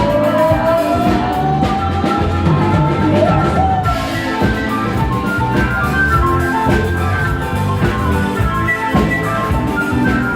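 A band playing music with a drum kit keeping a steady beat, and a lead melody that slides upward in pitch over the first few seconds.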